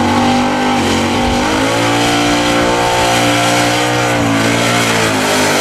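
Supercharged 400 small-block Chevy V8 of a 1969 Camaro Z28 held at high revs through a burnout, its rear tyres spinning. The engine note dips slightly about a second and a half in, then holds steady.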